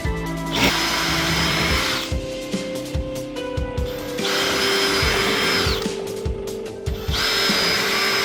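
Electric power tool run in three bursts, each rising to a steady high whine and then winding down, with background music underneath.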